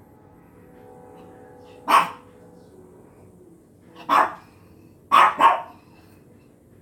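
Dog barking four times: a single bark about two seconds in, another about four seconds in, then a quick double bark just after five seconds.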